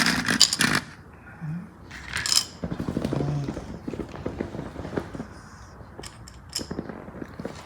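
Plastic LEGO pieces clattering and clicking as a built toy car is handled. A loud burst of rattling comes at the start and another about two seconds in, then a run of small, light clicks.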